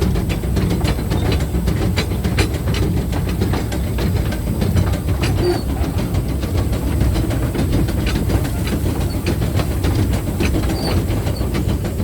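Steam locomotive running along the track, heard from the cab: a steady low rumble with frequent clicks from the wheels over the rails.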